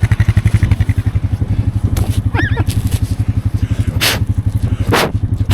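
Four-wheeler (ATV) engine running with a steady fast low pulsing. A short cry-like sound comes about halfway through, and two brief hisses come near the end.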